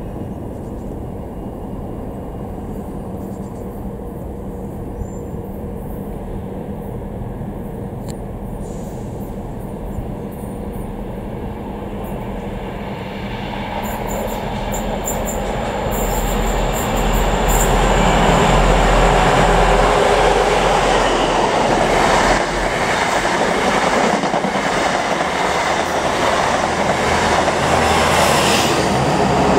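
Class 43 HST with Paxman VP185 diesel power cars approaching and running through the station without stopping. The engine and wheel-on-rail noise build from a low rumble to loud in the second half as the train passes.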